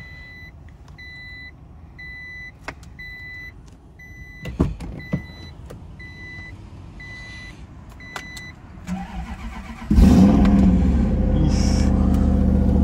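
Mazda RX-8's warning chime beeping over and over with a few clicks, then the engine cranks and starts about ten seconds in and keeps running at a steady idle. It is a start after the car has sat unused for a long time.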